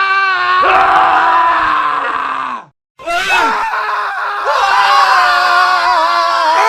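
Men screaming, cut together as a montage: one long scream breaks off a little under three seconds in, and after a brief silence more screaming starts, with several voices overlapping.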